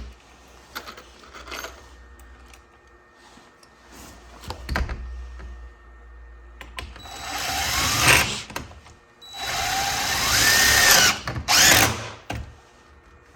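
Power drill driving screws or bolts: two runs of about a second and a half each in the second half, the motor's pitch sliding up and down as it spins, with a few light knocks and clicks of handling before them.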